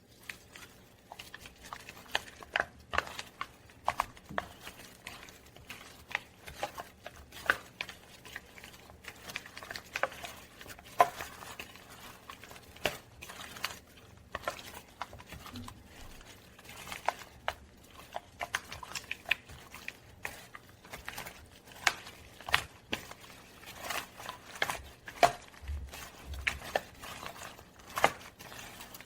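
Irregular light clicks and taps of kitchen utensils and dishes being handled during food preparation, with no steady rhythm.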